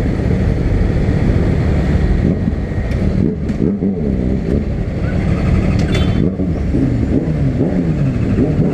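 Honda CB300 single-cylinder motorcycle engine running under way, its pitch rising and falling several times as it is revved, over a steady low rumble.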